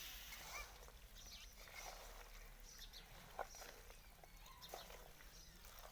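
Faint rural background with scattered short animal calls and small clicks, and one sharper click about three and a half seconds in.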